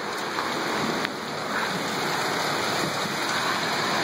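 Heavy rain pouring down in a steady, dense hiss, with a single sharp click about a second in.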